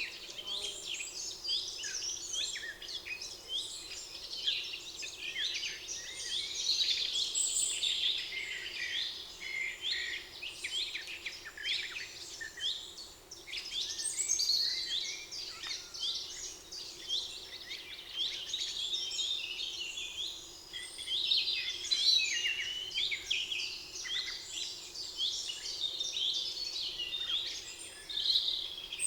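Chorus of many songbirds singing at once in a spring forest, with dense overlapping chirps, trills and whistled phrases that rise and fall in loudness and never stop.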